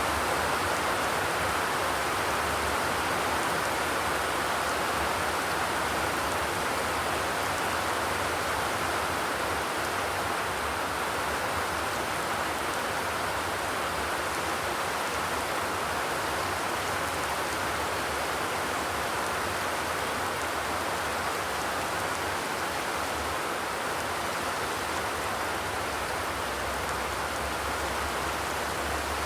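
Steady rain falling on a corrugated zinc roof, a dense even patter with no thunder.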